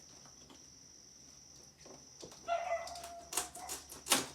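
Cardboard packaging being cut and pulled open by hand: scraping and squeaking, with a few sharp knocks, the loudest about four seconds in.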